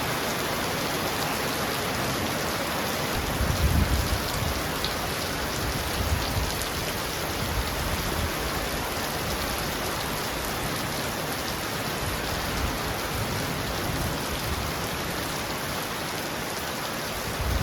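Heavy rain falling steadily on a roof, a dense even hiss of drops. A brief low rumble swells about three to four seconds in.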